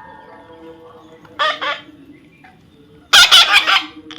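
Parrot squawking: a short double call about a second and a half in, then a louder, longer call about three seconds in.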